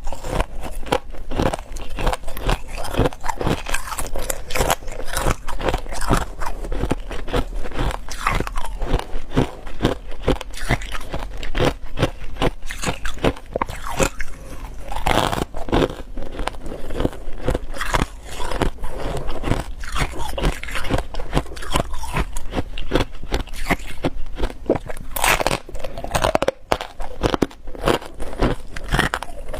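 Ice being bitten and chewed: a continuous run of sharp, crisp cracks and crunches in quick succession, close to the microphone.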